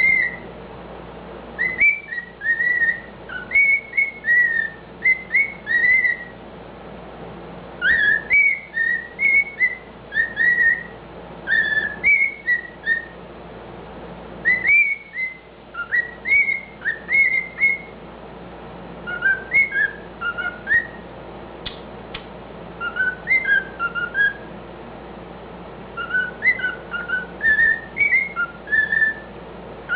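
A cockatiel whistling a tune of short, sliding notes in phrases with brief pauses, a learned medley of songs.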